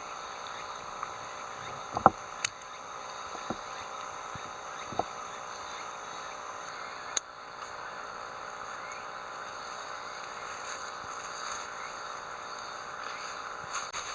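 Outdoor ambience with a steady, evenly repeating high chirping of insects, and a few sharp clicks or knocks, the loudest about two seconds in.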